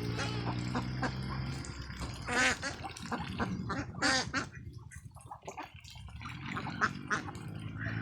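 A flock of ducks quacking, with many short calls and two louder, drawn-out calls about two and a half and four seconds in. A steady low hum runs underneath for the first second and a half, then stops.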